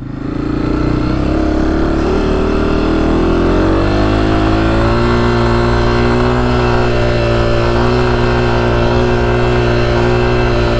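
2024 Honda CRF250F's single-cylinder four-stroke engine pulling the dirt bike through soft sand. The revs dip briefly at the start, climb over the first few seconds, then hold steady under throttle.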